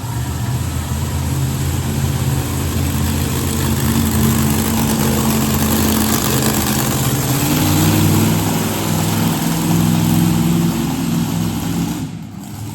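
Monster truck engine running loud, its pitch shifting up and down a few times as it revs, then dropping off near the end.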